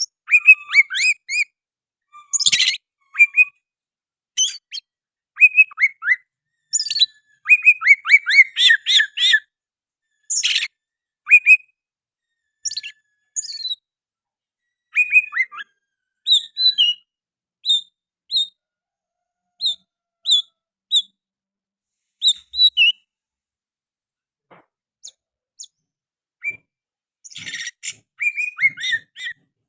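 Oriental magpie-robin (kacer) singing in quick, varied phrases of whistles and chirps. In the middle the song thins to short, evenly spaced repeated notes, and a dense burst returns near the end. The song carries mimicked sooty-headed bulbul (kutilang) phrases.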